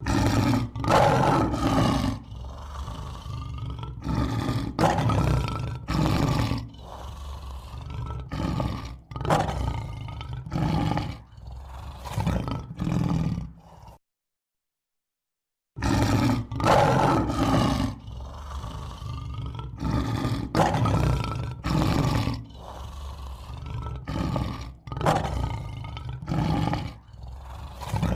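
Male lion roaring: a bout of deep, rough calls, the first ones loudest and longest, then shorter and weaker grunts in an uneven row. The bout cuts off about halfway through, and after a couple of seconds of silence the same bout starts over.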